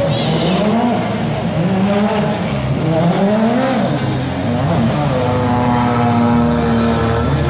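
Racing motorcycle engine revving, its pitch rising and falling several times as it runs through the gears, then held steady at high revs from about five seconds in.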